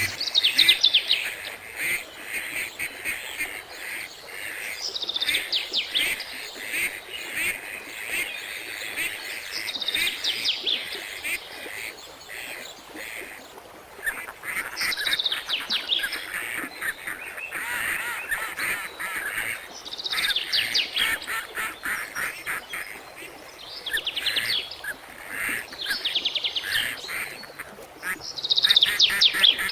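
Birds calling: runs of quick, chattering notes that fall in pitch, repeating every few seconds.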